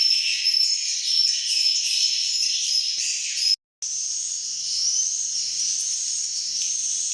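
Dense chorus of swiftlets chirping and twittering, many high-pitched calls overlapping at once. The sound cuts out completely for a moment just past halfway, then resumes with many short rising calls.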